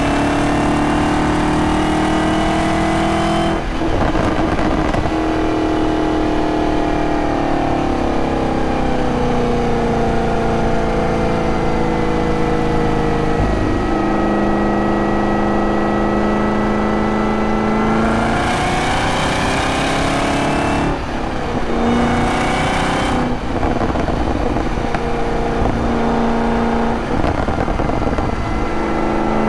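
Supercharged 6.2-litre V8 of a Camaro ZL1 under way, its note falling and rising with the throttle and dropping in a sudden step about halfway through. Two stretches of loud rushing noise come from the car later on.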